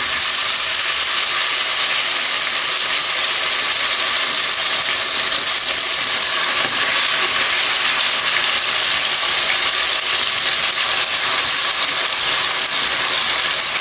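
Marinated chicken pieces frying in a pot of hot oil: a loud, steady sizzle with crackling.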